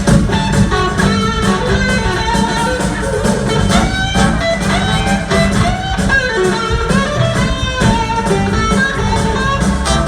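Live rock-blues band playing, with an electric guitar line over bass and drums, some of its notes gliding in pitch.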